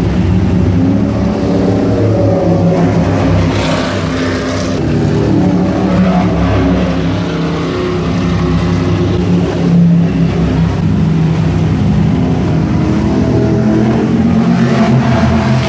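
Engines of several powerboats running together, a steady low rumble made of several overlapping engine notes at different pitches that shift slightly as they throttle.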